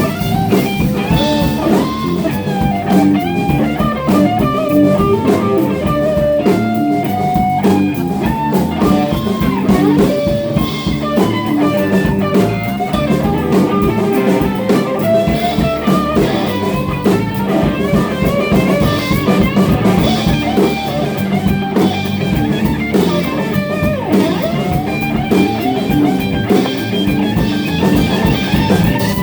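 Live rock band playing an instrumental passage: an electric guitar playing a lead line with bent notes over drums and bass guitar.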